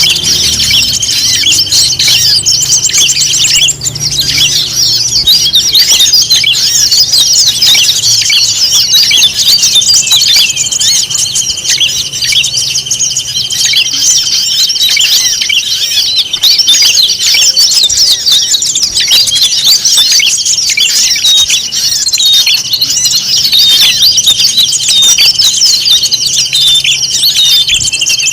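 Dense chorus of many small songbirds chirping and twittering at once, with a steady high tone running underneath that breaks off briefly about four seconds in. It is a bird-lure (pikat) call mix of the kind played to draw wild birds in.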